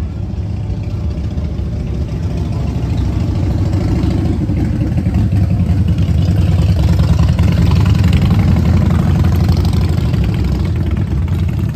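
Suzuki GSX-8R's 776 cc parallel-twin engine running steadily, with a low pulsing note that grows louder over the first half and eases slightly near the end.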